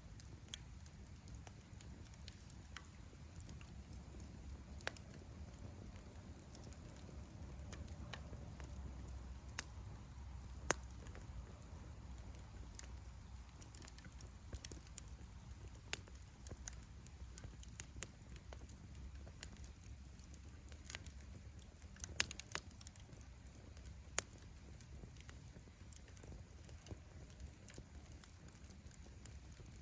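Firewood burning in an open bonfire, crackling with irregular sharp pops and snaps over a low rumble. A few louder pops come in quick succession about two-thirds of the way through.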